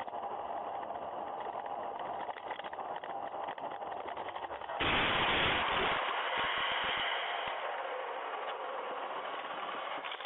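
Dashcam audio of a moving car with steady road noise, then about five seconds in a sudden loud bang and rumble, followed by a few low thumps and a slow fade: a collision.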